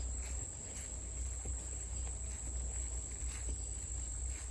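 Steady high-pitched trill of a late-summer insect chorus, with faint scattered ticks and rustles and a low rumble underneath.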